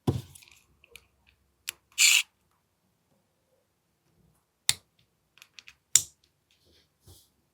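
Sharp clicks and clacks of an AAP-01 airsoft pistol's mechanism being worked by hand, a handful of separate clicks with the loudest about five and six seconds in, and a short hiss about two seconds in.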